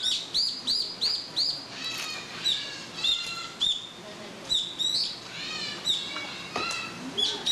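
Small birds chirping: short, high, arched notes in quick succession, with a few lower, falling calls from another bird about two and six seconds in.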